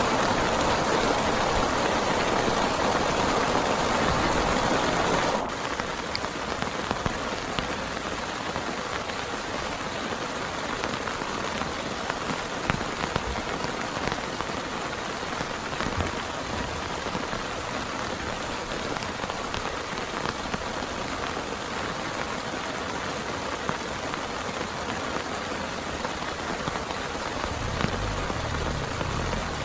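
Heavy rain falling steadily, with scattered sharp drop ticks. The level drops abruptly about five seconds in, and a low rumble comes in near the end.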